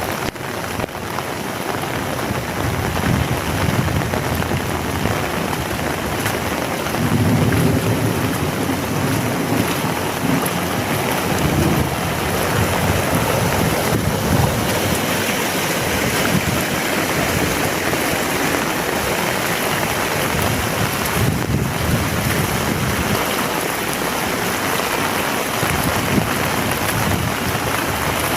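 Heavy rain pouring steadily, a dense even hiss. A low rumble swells under it from about a quarter of the way in for several seconds, then fades.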